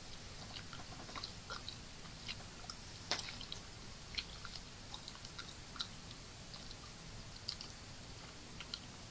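Close-miked chewing: soft, wet mouth clicks scattered through, with one sharper click about three seconds in.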